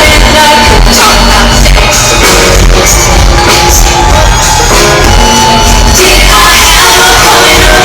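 Loud live pop concert music, a woman singing over a heavy bass beat, recorded from the audience at close to full volume.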